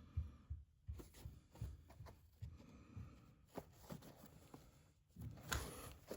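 Faint handling sounds from working foam padding by hand: soft irregular rustles and light taps, with a few small clicks and a short burst of rustling near the end.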